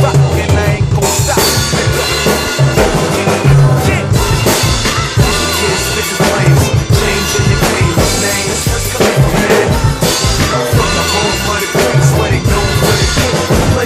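Drum kit played along to a hip-hop track: kick drum, snare and rimshots over the recording's bass line, continuous throughout.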